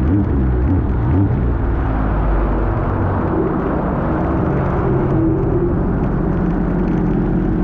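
Sea-Doo GTR230 jet ski's supercharged Rotax 1630 ACE three-cylinder engine running steadily under way, with a rush of noise over it.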